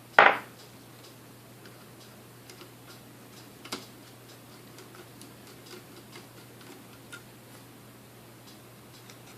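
Light scattered clicks and taps from small parts being handled on the workbench, with one sharper click in the middle; the mixer is not running. Just after the start there is one short, loud, noisy rush lasting under half a second.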